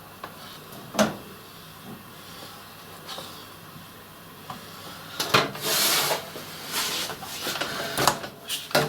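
Workshop handling noise of a table saw blade guard and a scribing block being moved: a sharp knock about a second in, then a cluster of knocks and scraping over the last few seconds.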